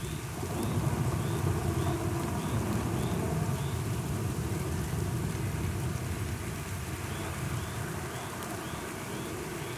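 Steady rain falling, under a long low roll of thunder that is loudest near the start and slowly fades.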